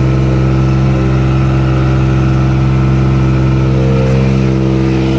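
Bucket truck's engine running steadily at a constant speed, one even pitched hum with no revving.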